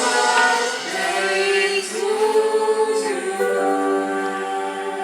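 Choir-like vocal music: several voices singing long held notes together, moving to a new chord every second or so.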